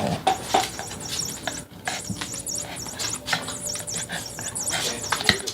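Toy mouse cat toy giving repeated high squeaks, with scattered short taps and clicks.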